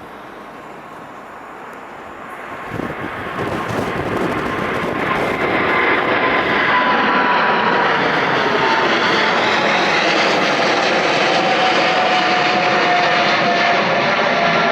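Boeing 777's GE90 turbofan engines at high thrust, growing louder over the first few seconds and then holding a loud steady rush. A whining tone in the engine noise slowly falls in pitch in the second half as the aircraft passes.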